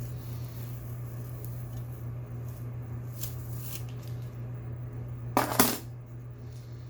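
A short, loud clatter of hard plastic objects being handled about five and a half seconds in, with a few light clicks before it over a steady low hum.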